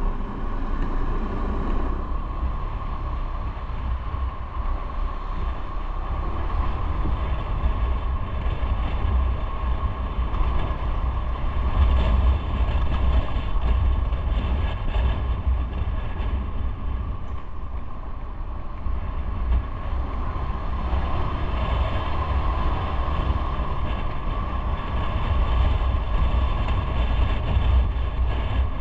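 Motorcycle running at riding speed, with a steady heavy rumble of wind on the microphone.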